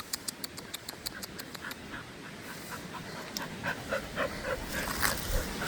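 A dog panting in quick, even breaths after running for a fetched ball. Wind rumbles on the microphone near the end.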